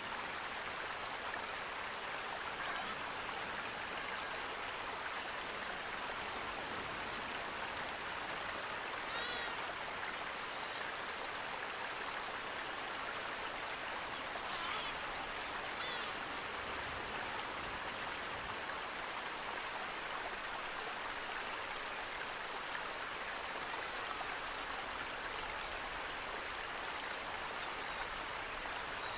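Steady rush of flowing water, with a few faint bird chirps about nine seconds in and again around fifteen and sixteen seconds.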